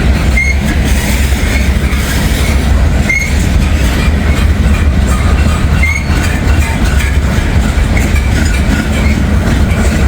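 Freight train cars rolling past close by: a steady rumble of steel wheels on rail, with short high wheel squeaks every second or two.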